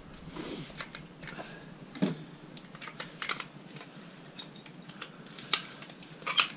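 Irregular light metallic clicks and clinks of scrap metal parts being handled and worked by hand, with sharper knocks about two seconds in and near the end.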